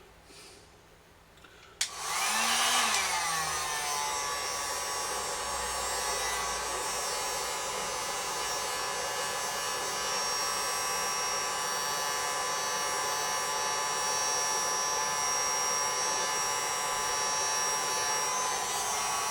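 Heat gun switched on with a click about two seconds in, its fan spinning up and then running steadily with a rushing blow and a thin whine.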